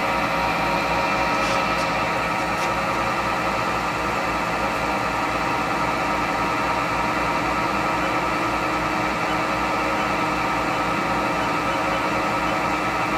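Haas VF0 vertical machining center's spindle running steadily at 1,000 RPM with no load, a steady hum and whine made of many fixed tones over a low pulsing drone.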